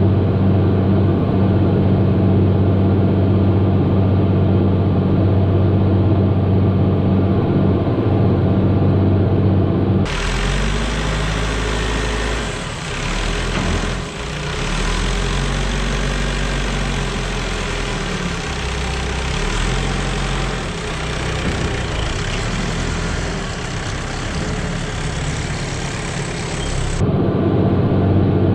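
Tractor engine running, first with a steady even hum. About ten seconds in it changes to a noisier, deeper rumble whose pitch rises and falls, and the steady hum returns near the end.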